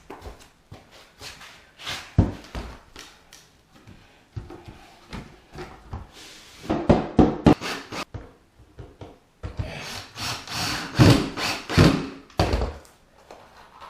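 Wood being sawn by hand: rasping saw strokes through a board, coming in two quick runs of strokes, the second longer, with scattered scrapes and knocks between them.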